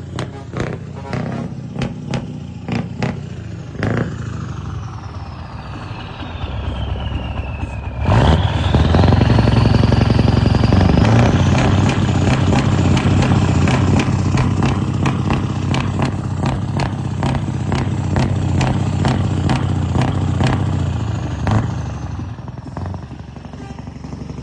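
Scania R 500 V8 truck engine with a few sharp knocks at first, then revved hard about a third of the way in, a whine rising with the revs. It stays loud and high for several seconds and eases off near the end.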